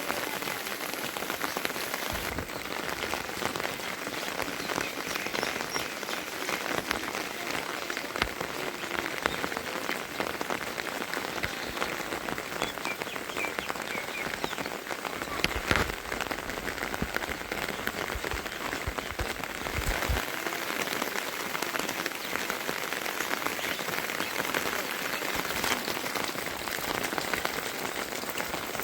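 Heavy rain falling steadily: an even hiss dense with the patter of individual drops, and a few louder knocks now and then.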